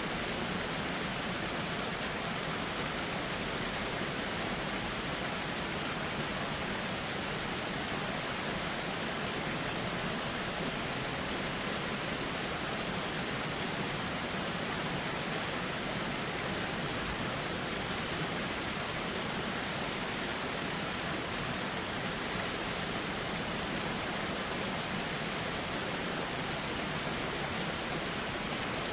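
Flowing river water, a steady even rushing that does not change.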